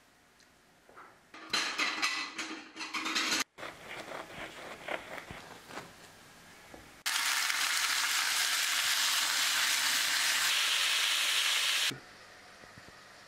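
A serrated knife saws through a crusty sesame burger bun with scattered crackling. About seven seconds in, food frying in a hot pan sets off a loud, steady sizzle that lasts about five seconds and cuts off abruptly.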